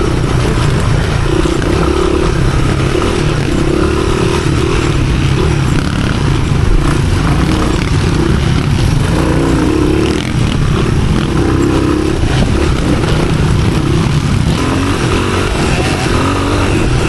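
Off-road motorcycle engine running hard and continuously, its pitch wavering up and down as the throttle is worked.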